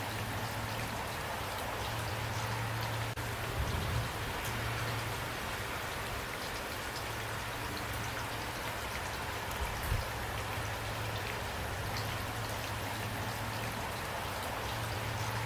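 Steady rain falling, with individual drops ticking on a surface. There are two brief low thumps, one about four seconds in and one near ten seconds.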